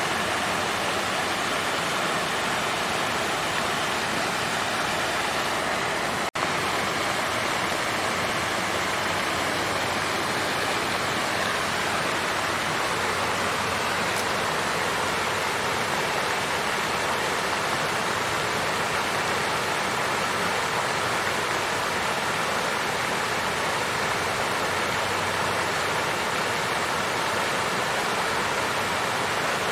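Water fountain running, a steady splashing flow of water with no change in level. A split-second dropout about six seconds in.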